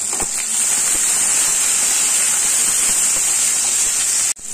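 Chopped green beans and fried onions sizzling in hot ghee in a wok-style pan, a steady hiss that cuts off abruptly near the end.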